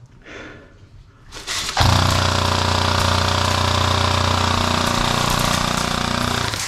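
Long full-auto burst from an electric airsoft gun, its gearbox cycling rapidly in a steady rattling buzz. It starts about a second and a half in and keeps going, unbroken, to the end.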